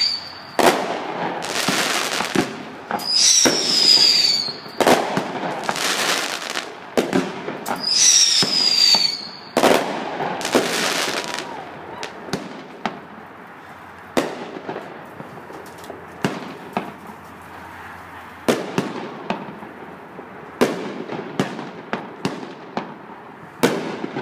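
Fireworks going off at close range: a rapid run of loud shell bursts, two of them with a high whistle that falls in pitch, then from about halfway a quieter scatter of sharp crackling pops.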